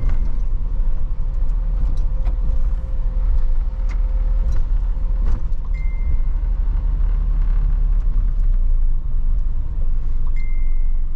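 Isuzu box truck under way, heard from inside the cab: a steady low engine and road rumble with scattered rattles and clicks, and two brief high squeaks or beeps, one about halfway and one near the end.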